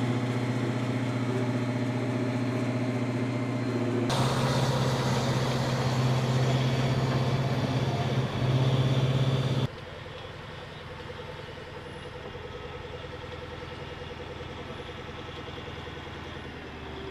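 A heavy vehicle engine running with a steady low drone. The sound changes abruptly about four seconds in, and drops noticeably quieter near ten seconds in.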